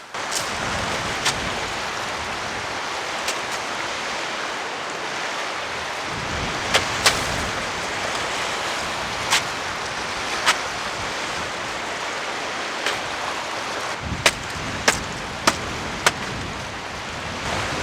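Steady rain hiss with about a dozen sharp ticks or knocks scattered through it, several close together near the end.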